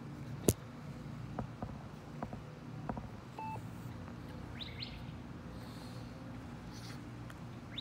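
Birds chirping a few times near the end over a steady low hum, with a sharp click about half a second in, a few softer clicks after it and a short beep in the middle.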